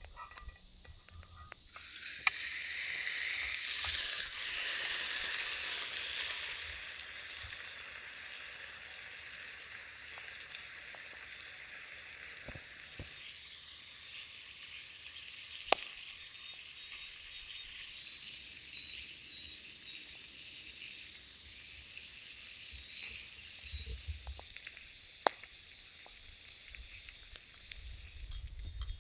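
Fatty chuck short rib sizzling in a hot canteen cup over a campfire. The sizzle flares up loudly about two seconds in, then settles to a steady frying hiss, with a couple of sharp clicks.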